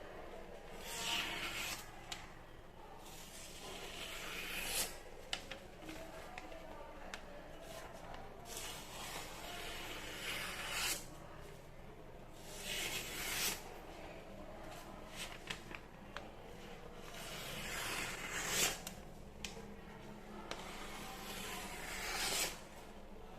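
Steel knife blade scraping in a series of rubbing strokes, each about a second long, building up and stopping sharply, a few seconds apart.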